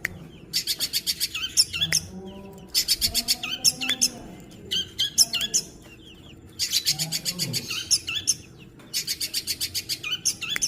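Long-tailed shrike (cendet) singing mimicked house sparrow chatter: about five bursts of fast, evenly repeated high chirps, each one to two seconds long, with short pauses between.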